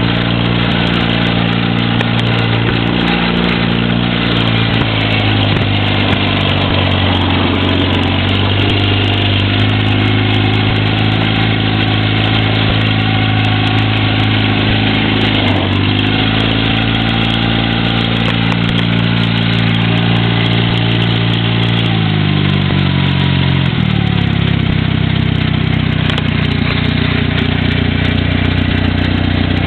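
1937 Eimco Power Horse tractor's engine running steadily. Its speed dips briefly about halfway through, then settles to a slower idle about three quarters of the way through.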